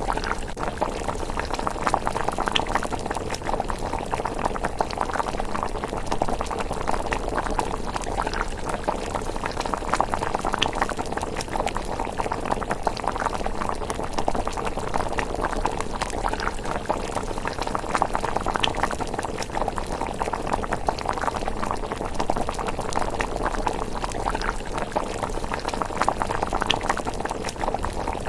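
Pot of thick rice porridge simmering: a steady, dense stream of small bubbling pops.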